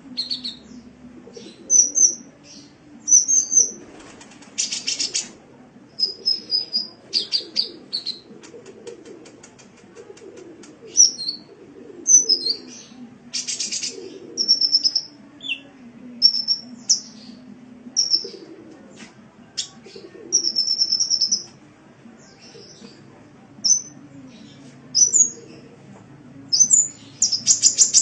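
Sunbird (the bird Indonesian keepers call kolibri) singing: a rapid, irregular run of high-pitched chirps and twitters broken by a few short buzzy rattling trills, over faint low background noise.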